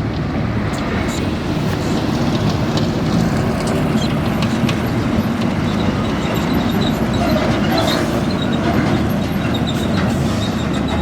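Heavy truck's diesel engine running steadily, a continuous low rumble.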